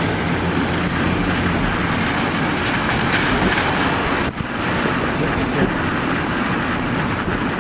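Steady rushing wind noise with a low vehicle rumble, as from a slowly moving car with its window open. It dips briefly about four seconds in.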